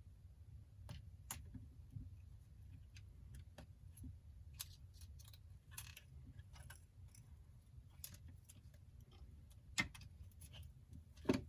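Scattered light clicks and taps of small repair tools and parts on the opened iPhone 8, with two louder clicks near the end.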